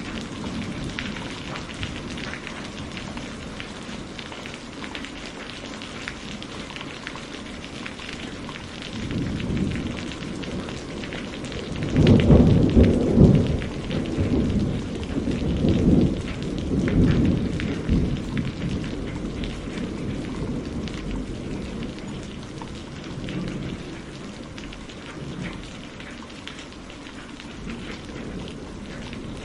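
Steady rain falling, with rolling thunder that swells in about nine seconds in, is loudest a few seconds later, and rumbles on for several seconds before fading back under the rain.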